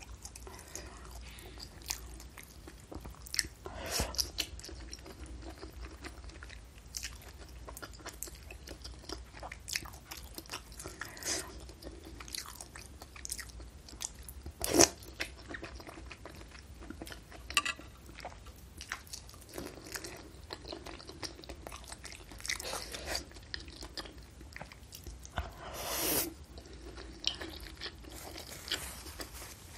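A person eating beef meatball soup with noodles, chewing close to the microphone, with irregular wet clicks and a few louder mouth sounds.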